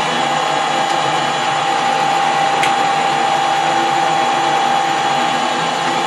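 Metal lathe running steadily with a steady whine as the turning tool cuts a small bar held without a tailstock centre; the machinist thinks the tool tip has gone slightly, as it is not leaving its usual finish.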